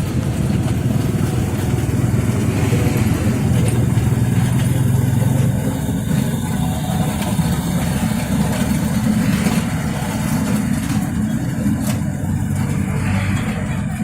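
Steady low rumble and drone of a train in motion, heard from on board.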